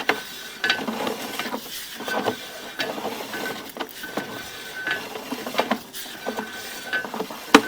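Drain inspection camera's push rod and reel clicking and rattling irregularly as the camera is fed along the sewer pipe, with brief faint squeaks between knocks.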